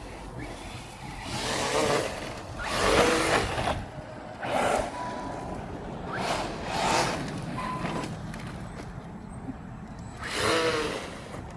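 Arrma Mojave 4S RC truck's brushless electric motor whining in repeated short bursts of throttle, about six pulls with the pitch rising and falling.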